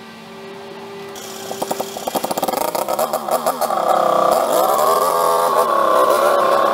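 Engine of a homemade 'redneck' tractor, running quietly at first, then revving up in uneven pulses about a second and a half in. About four seconds in it settles into a loud, high, fairly steady note at high revs.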